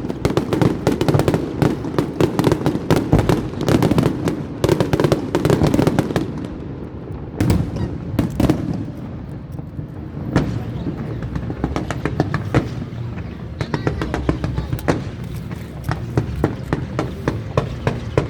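Aerial fireworks bursting and crackling in rapid succession. The bangs are dense for about the first six seconds, then thin out to scattered bangs and crackles.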